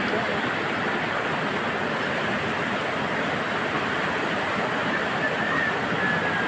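Fast-flowing river water rushing steadily, an even, unbroken rush.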